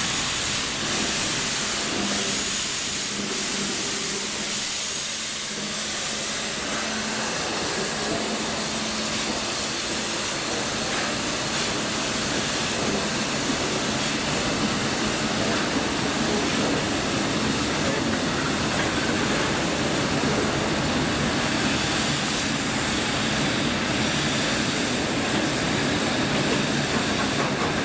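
Railway locomotive at work with a steady hiss.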